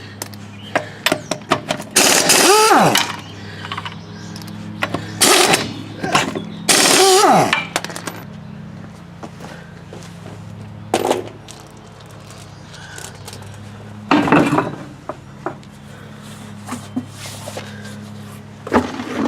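Wrench work on a pickup truck's front wheel: lug nuts being turned, with several loud squealing metal creaks about a second long and clicks and clanks between them, over a steady low hum.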